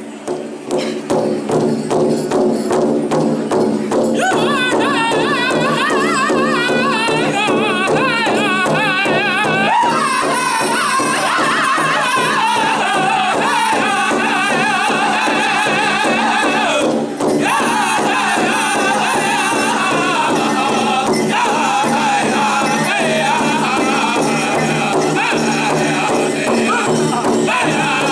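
Powwow drum group singing over a large drum struck in a steady, even beat. The high, wavering group singing comes in over the drum about four seconds in.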